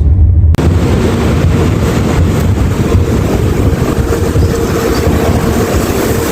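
Passenger train running, heard from inside the carriage: a steady low rumble and rushing noise from the wheels and track. The sound breaks off abruptly about half a second in and picks up again with more hiss.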